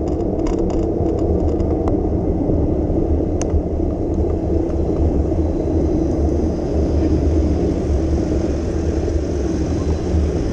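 Steady low rumble of street traffic and road noise heard from a moving bicycle, with a few light clicks in the first few seconds.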